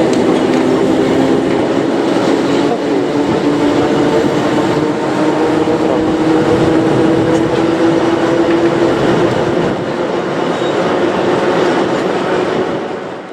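Passenger train running along the line, heard from aboard: a steady rolling rumble of wheels on rail with a sustained hum of several steady tones. It fades out near the end.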